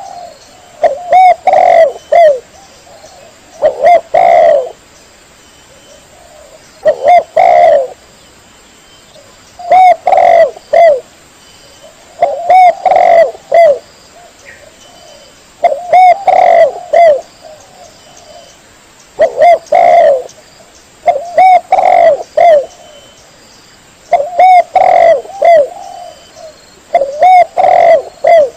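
Spotted dove (tekukur) cooing: loud phrases of a few arched coo notes repeat about every three seconds, with short pauses between them.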